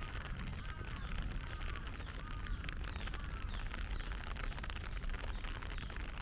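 Heavy rain falling steadily, dense with fine drop ticks. A bird gives several short faint calls that rise and fall in pitch during the first half.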